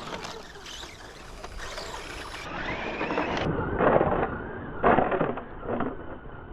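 Schumacher Bosscat electric radio-controlled buggies running on a dirt track: the whine of an electric motor rising in pitch about halfway through, with rushing tyre-on-dirt noise, and three louder surges in the second half.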